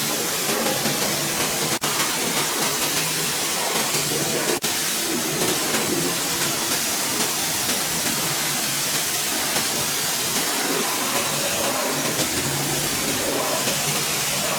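A steady, loud hiss from car-cleaning equipment, cutting out for an instant twice near the start.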